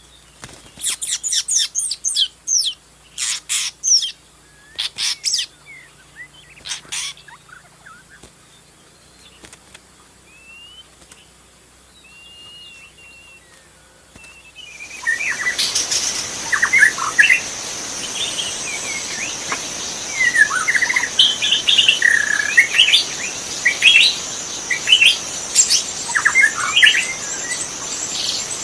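Wild songbirds singing: loud, sharp whistled calls in quick runs, then a few soft whistles. About halfway through the sound changes abruptly to a busier chorus of short chirps over a steady high-pitched hum and more background hiss.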